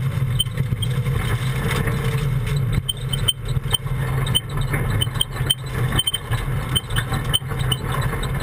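Mitsubishi Lancer Evo 8 MR rally car's turbocharged four-cylinder engine running at low, steady revs, heard from inside the cabin, with scattered light clinks and rattles.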